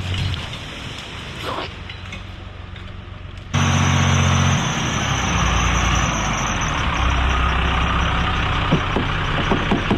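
Pickup truck engine running while driving over an off-road trail. It is quieter at first and gets suddenly louder about three and a half seconds in. A few sharp knocks come near the end.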